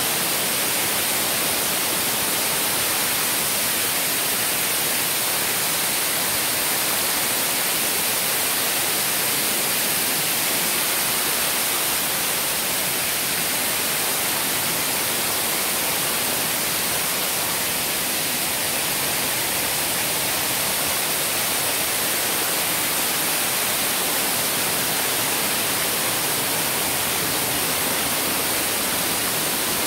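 Waterfall rushing steadily: an even, unbroken hiss of falling water with no change in level.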